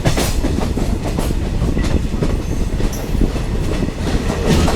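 Indian Railways diesel multiple unit running along the track, heard from on board: a loud, steady rumble of the wheels with repeated clickety-clack over the rail joints. Heavier clatters come just after the start and again near the end.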